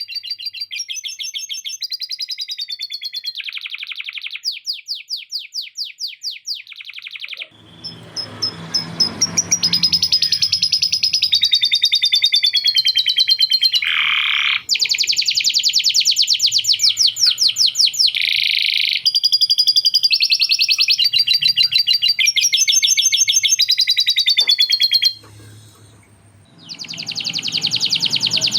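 Male domestic canary singing a long, unbroken song of fast trills and rolls with lovebird-style chatter phrases in it. The song pauses briefly near the end, then starts again.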